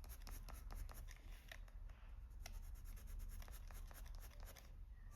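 Coloured pencil scratching on paper in short, quick strokes, a soft dry rasping with many small ticks as the pigment is laid down.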